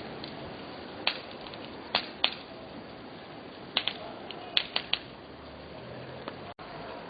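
Bonfire crackling: a steady hiss of burning with scattered sharp pops, a few in close pairs and triplets.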